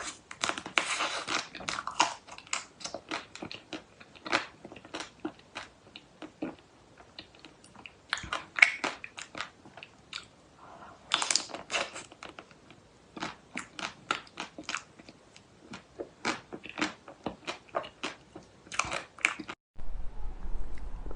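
Close-miked mukbang eating: a person biting and chewing crunchy food, many irregular crisp crunches and crackles.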